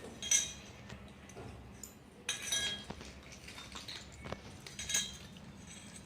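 A cat eating from a dish, which clinks three times with a short ring each time.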